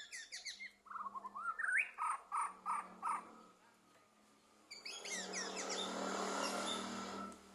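White-rumped shama (murai batu) singing in quick runs of short rising whistled notes, then, after a pause of about a second and a half, a dense rapid-fire burst of notes from about five seconds in: the 'trotol' delivery of this songbird.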